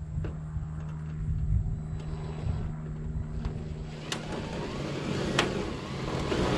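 Aerial work lift's engine running steadily with a low hum, with a rising noisier stretch and two sharp clicks in the second half.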